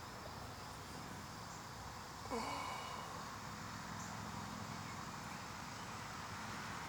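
Steady hiss of distant highway traffic at night, with a short pitched sound about two seconds in, after which the traffic noise grows slightly louder.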